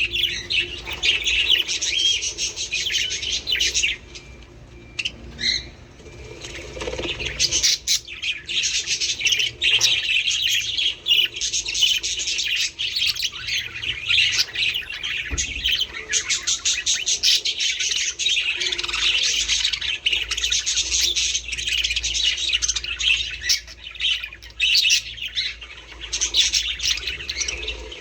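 A flock of budgerigars chattering and chirping without a break, with a short lull about four to six seconds in.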